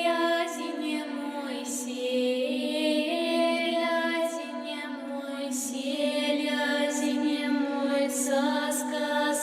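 A song sung by high voices, the long held notes stepping up and down in pitch.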